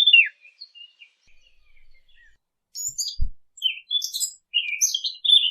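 Small birds chirping and twittering in quick, high notes. The calls thin out for about two seconds soon after the start, then pick up again busily, with a brief low thump about three seconds in.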